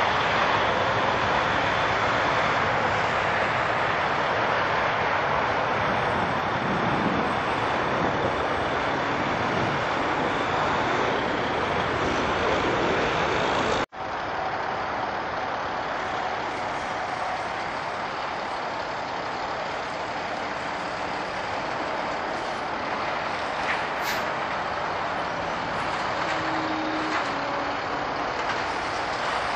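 Jet airliner engines running, a steady, dense rushing noise. It cuts off abruptly about fourteen seconds in and resumes at once, slightly quieter.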